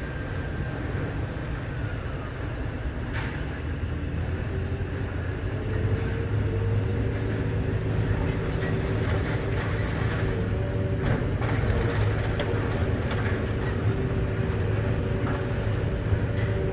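Idromec T 650 CLS hydraulic scrap metal shear baler running, a steady low machine hum that grows louder and heavier about six seconds in as it comes under load. A few sharp metal knocks sound through it.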